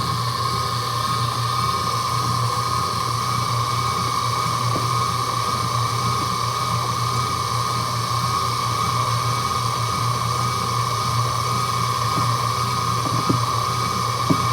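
Laundry machine's electric motor running steadily, a constant low hum with a steady whine above it, with a couple of faint clicks near the end.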